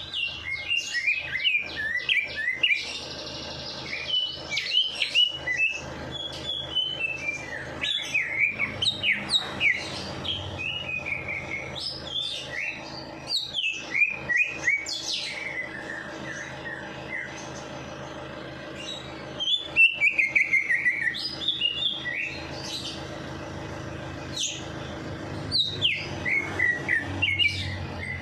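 Songbirds chirping and singing in bursts of sharp, rapid notes, many sliding down in pitch, with a fast falling run of notes about twenty seconds in, over a faint steady low hum.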